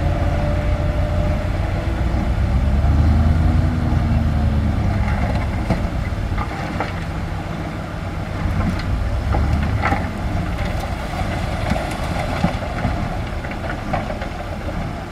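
Bulldozer's diesel engine running heavily, its pitch rising and falling a few seconds in, with scattered sharp knocks later on.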